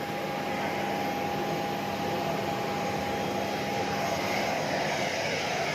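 Jet aircraft turbine running steadily: a constant whine over a broad rushing noise, the whine fading out about five seconds in.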